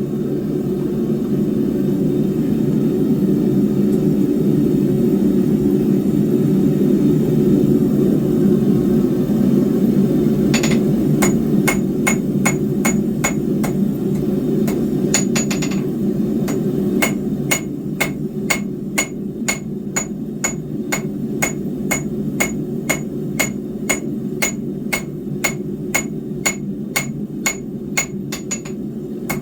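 Hand hammer striking hot square steel bar on an anvil, forging an eating spike: the anvil rings with each blow. For about the first ten seconds only a steady low roar of the forge is heard, then blows start, and from just past the middle they fall in a regular rhythm of about two a second.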